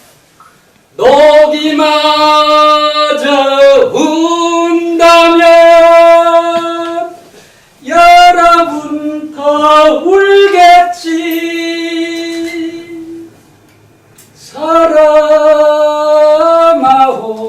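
A solo voice singing a slow Korean ballad unaccompanied. It comes in four long phrases with held notes, with short pauses between them.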